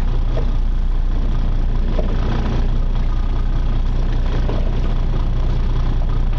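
A charter fishing boat's engine running at a steady low hum, with no change in speed.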